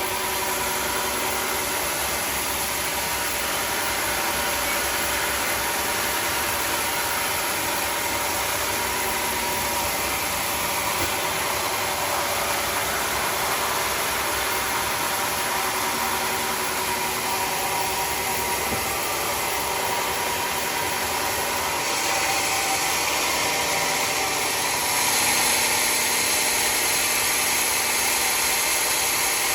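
Sawmill running steadily with a continuous mechanical noise. About three-quarters of the way through, a brighter, hissier sound joins and grows louder in two steps.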